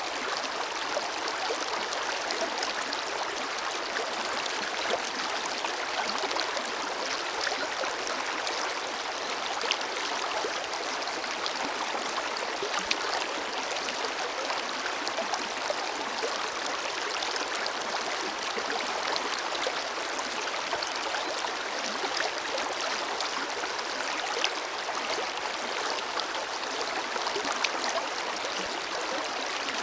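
Forest river flowing, a steady rush of water over stones with many small splashes and trickles.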